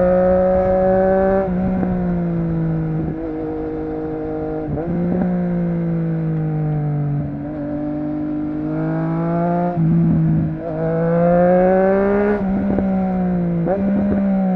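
Triumph Street Triple RS's inline-three engine with a Yoshimura exhaust, running on the move. The revs climb slowly, dip sharply, then pick up again, about eight times.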